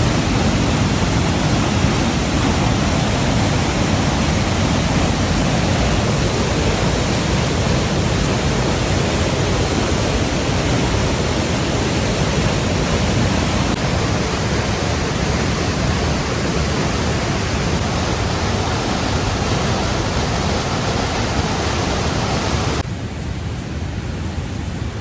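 Steady, loud rushing of falling water with no rhythm or separate strokes. It drops abruptly to a quieter rush near the end.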